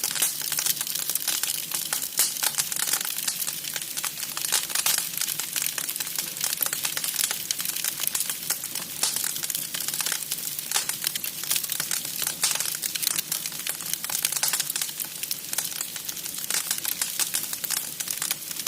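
Wood fire crackling, a steady dense run of small snaps and ticks.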